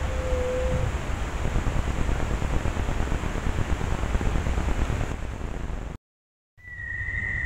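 Steady loud hiss with a single short, low whistled bird note at the very start. After a brief dropout about six seconds in, the hiss is fainter and a higher whistled bird note sounds near the end.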